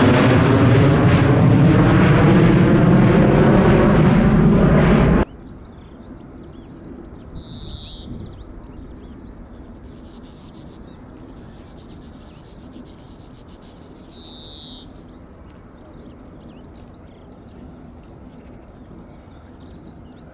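Boeing 737-800's CFM56 jet engines at take-off thrust, loud and sweeping as the jet passes, cutting off abruptly about five seconds in. After that, quiet outdoor background with a short, high, falling bird call repeated about every seven seconds.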